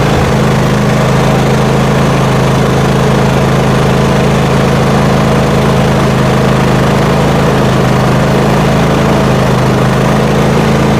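Small engine of a riding lawn mower running steadily at a constant speed.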